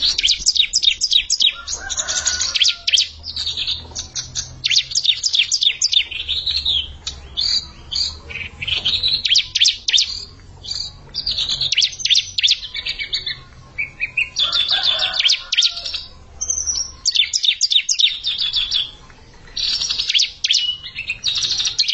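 Bar-winged prinias (ciblek) singing: loud, rapid, high chirping trills in repeated bursts of a second or two with short breaks between.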